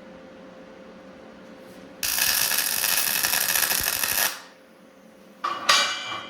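Steel parts clanking several times near the end, each strike ringing on briefly. Before that comes a loud hiss lasting about two seconds, which stops suddenly.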